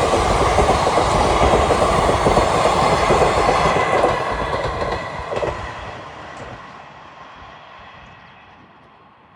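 An Indian Railways train passing on the track: loud wheel and track noise for about four seconds, then fading steadily as it moves away.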